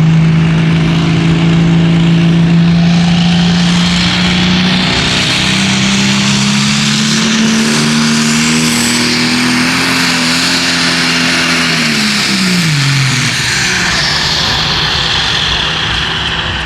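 Pulling tractor's turbocharged engine at full throttle under load, with a high whine above it. The engine's pitch climbs midway, then falls away about thirteen seconds in.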